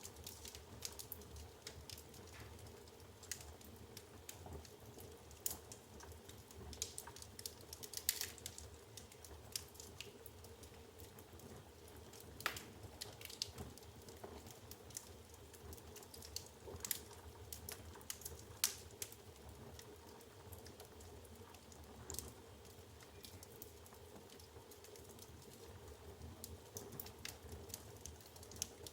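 Wood fire burning in a fireplace, the logs crackling with irregular sharp pops and snaps over a faint steady low background.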